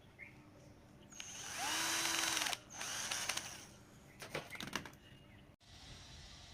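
Handheld power drill spinning up, holding and winding down, then a second shorter run, followed by a few clicks and knocks.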